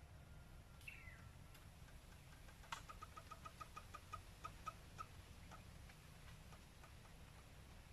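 Faint bird calls: a single falling note about a second in, then a run of about ten short, evenly spaced notes at roughly five a second, spacing out toward the end.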